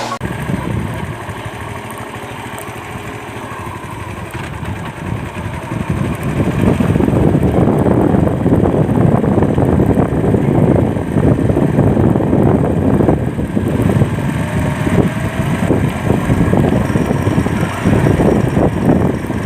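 Motorcycle engine running on the move, with wind rushing over the microphone; louder from about six seconds in.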